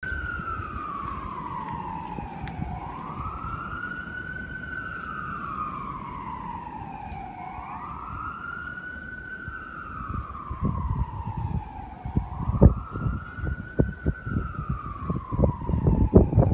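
Emergency vehicle siren sounding a slow wail, its pitch rising and falling about every five seconds. Irregular low thumps join in from about ten seconds in and grow more frequent.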